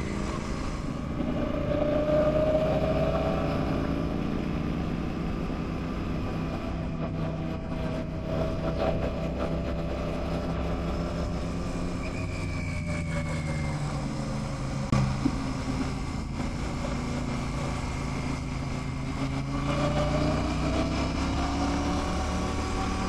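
Royal Enfield Classic 650's parallel-twin engine running on the move, its pitch rising and falling with the throttle. There is a brief sharp knock about fifteen seconds in.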